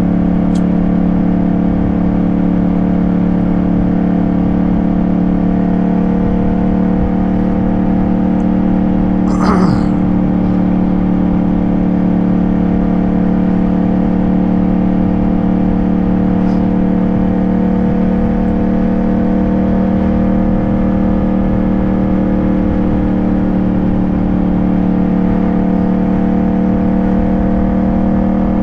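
Yamaha 689 cc parallel-twin motorcycle engine running at a steady cruising speed, a constant drone with the rush of wind on the microphone beneath it. A brief sharper noise cuts through about nine and a half seconds in.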